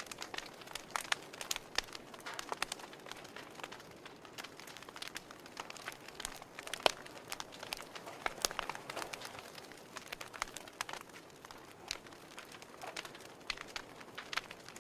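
Wood fire crackling: irregular sharp pops and snaps over a soft hiss, with one louder pop about seven seconds in.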